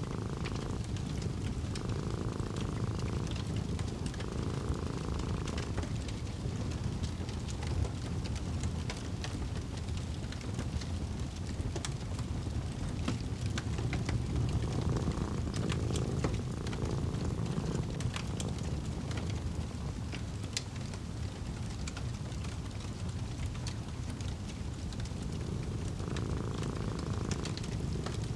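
Wood fire crackling in a fireplace, with many small scattered pops, over a cat's steady low purr.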